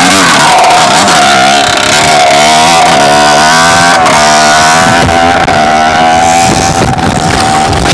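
Dirt bike engine running loud and close, its pitch wavering up and down as the throttle is worked.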